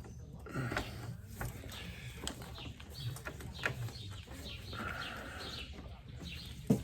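Small birds chirping repeatedly, short falling notes, with a few sharp clicks and knocks from a valve cover being worked against the motorcycle's frame and fan shroud; the loudest knock comes near the end.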